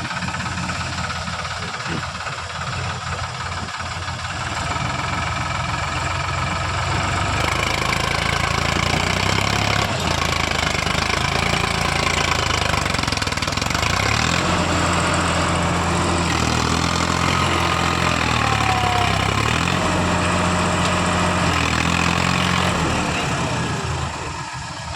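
Sonalika tractor's diesel engine running under heavy load while the tractor is stuck in wet mud. The engine picks up speed and gets louder a few seconds in, holds high with small changes in pitch, then drops back near the end.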